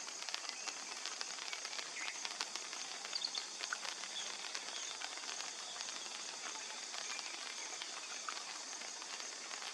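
Faint outdoor ambience: a steady high hiss with many small scattered clicks and a few faint short high chirps about three seconds in.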